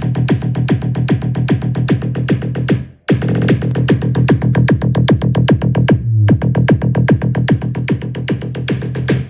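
Electronic dance music with a fast drum-machine beat and heavy bass, played loud through a car audio system of Ural Ogon 165 midrange speakers and Crystal Car Audio TW-03 tweeters. The music drops out briefly twice, about three and six seconds in.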